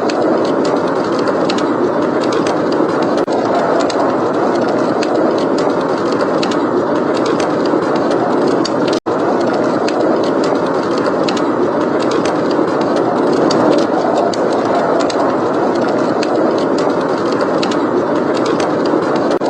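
Steady rushing blizzard wind with fireplace crackling: frequent small, sharp crackles over the wind. The sound cuts out for an instant about nine seconds in.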